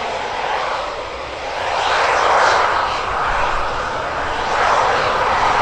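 Jet aircraft engine noise, a steady roar that swells about two seconds in and again near the end.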